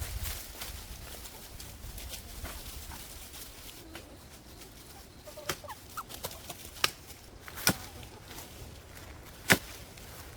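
Chickens clucking softly, with several sharp knocks in the second half, the loudest near the end.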